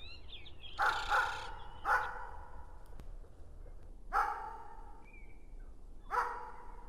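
A dog barking: five short barks, two in quick succession about a second in, then single barks near two, four and six seconds. Faint bird chirps at the start.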